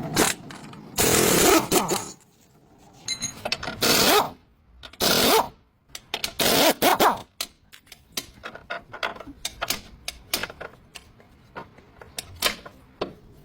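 Metal tools and parts clanking and clinking, with several louder, noisy bursts about a second long in the first half, then a run of quick sharp clicks and taps.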